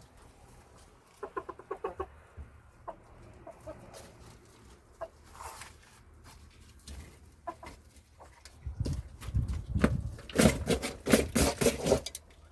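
Domestic chickens clucking in short pulsed calls. There is a louder stretch of rapid scratchy, rustling noise in the last few seconds.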